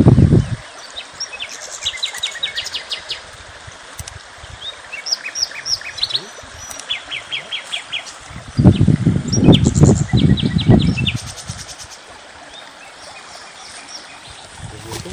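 Small birds chirping and singing in short, rapid trills over a steady outdoor hiss. A loud low rumble comes in for about two seconds partway through.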